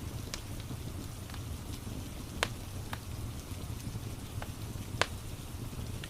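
Rain and crackling fireplace ambience: a steady hiss of rain over a low rumble, with a few sharp crackling pops, two louder ones about two and a half and five seconds in.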